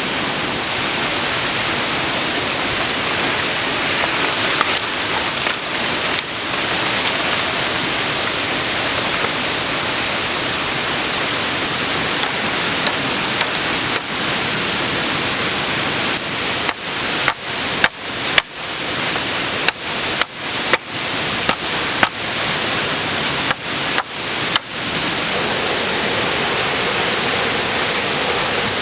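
Steady loud rush of a waterfall, an even hiss of falling water. In the second half it is broken by about a dozen brief gaps where the sound cuts out and snaps back.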